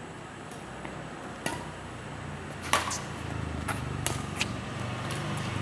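Badminton rally: sharp racket strikes on a shuttlecock, several over a few seconds, the loudest about halfway through. A low engine hum builds in the background from about halfway.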